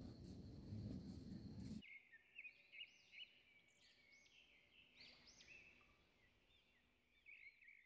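Faint bird chirping, a quick run of repeated arched chirps. It follows a low rumbling noise that cuts off abruptly about two seconds in.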